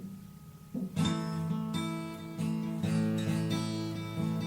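Acoustic guitar strumming chords in a live band's instrumental break, after a near pause at the start; the strumming comes back in about a second in.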